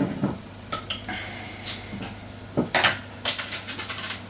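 A beer being opened and readied for pouring: a string of separate clicks and knocks, a short high hiss about a second and a half in, and a quick run of bright, ringing glassy clinks near the end.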